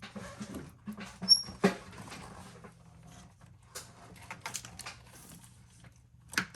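Hand work in a Chevrolet Tahoe's engine bay: plastic wiring and connectors being pushed aside around the fuel rail, with scattered clicks and knocks and a brief high squeak about a second in.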